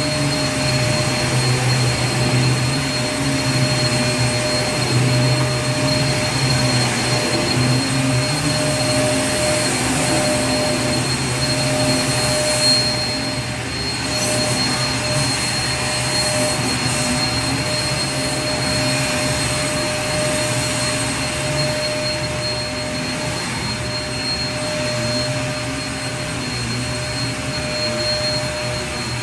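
Vacuum cleaner running steadily: a continuous rush of air over a low hum, with a thin high whine above it.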